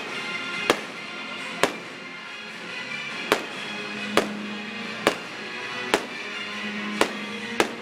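Aerial firework shells bursting: about eight sharp bangs, roughly one a second, over music playing throughout.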